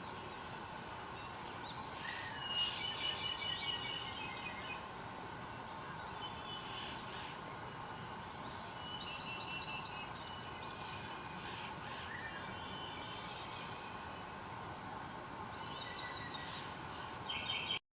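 Wild birds singing and calling in short repeated phrases over a steady background noise; the sound cuts off abruptly near the end.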